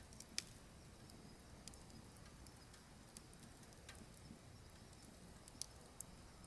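Burning firewood crackling: scattered sharp pops and snaps over a faint low rumble of the flames, with the loudest pop just under half a second in and two more near the end.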